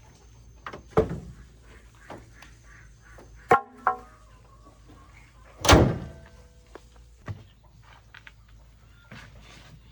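A few separate knocks and thuds: one about a second in, two quick ringing clanks a little after three seconds, and a louder, longer thud about six seconds in.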